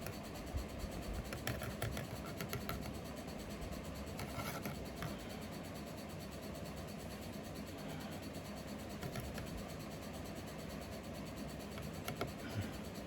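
Faint scratching and rubbing with a few light clicks, from the tarantula enclosure and its webbing being handled, over a steady low background hum.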